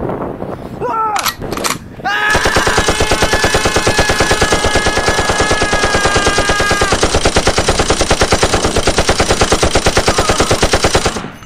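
Sustained rapid automatic gunfire: a fast, even stream of shots that starts about two seconds in, runs for about nine seconds and cuts off suddenly.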